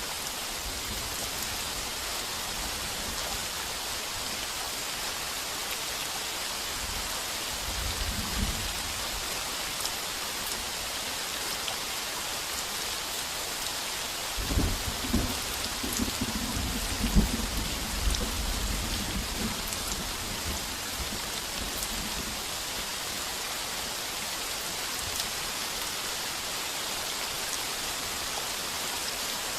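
Heavy rain pouring steadily on a tin roof, with thunder rumbling low twice: briefly about eight seconds in, then a longer, louder roll from about fourteen to twenty seconds.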